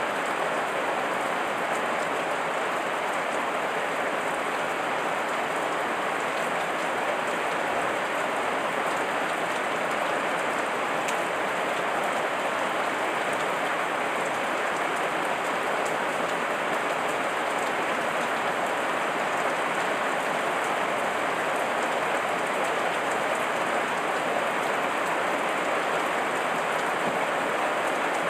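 Heavy rain falling, a steady, even hiss of many drops with no thunder.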